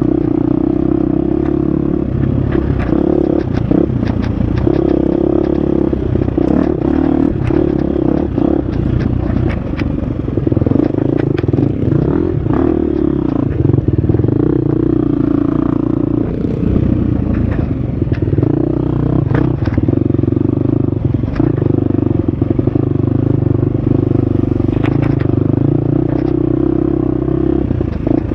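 Husqvarna FX 350 dirt bike's single-cylinder four-stroke engine running hard, its revs rising and dropping with throttle and gear changes, with frequent sharp knocks and clatter as the bike rides over rough ground.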